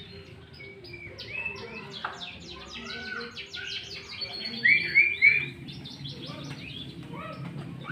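Sooty-headed bulbuls calling: a busy stream of quick chirps mixed with louder slurred whistled notes, the three loudest coming about five seconds in.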